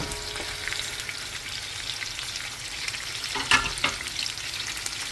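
Onion frying in a pot of hot oil with whole spices, a steady crackling sizzle. About three and a half seconds in, a utensil briefly clatters and scrapes in the pot.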